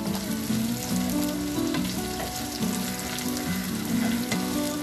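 Cubed onion, green capsicum and garlic sizzling in oil in a non-stick pan while a wooden spatula stirs and scrapes them. A soft background tune steps along underneath.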